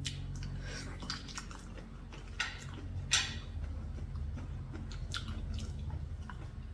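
A person chewing and biting food, with scattered small wet smacks and clicks over a low steady hum. The food is a spicy seafood papaya salad with shrimp and squid.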